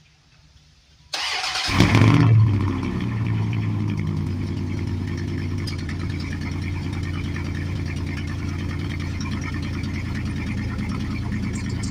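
2001 Dodge Ram van's 3.9-litre V6, straight-piped with the muffler deleted but the catalytic converter kept, cold-starting. The starter cranks briefly about a second in, the engine catches and flares up, then settles into a steady idle.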